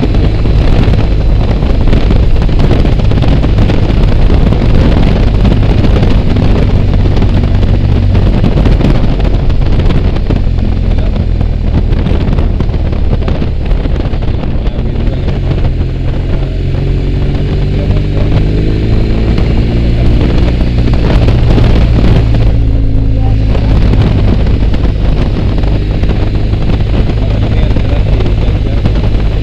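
BMW R1200GS boxer-twin engine running on the move, with wind rushing over the microphone. The engine note climbs several times a little past halfway, and the wind noise drops away briefly about three-quarters through.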